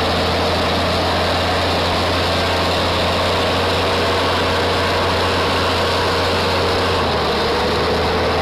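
Heavy vehicle engine running steadily: a constant low hum under a loud, even noise.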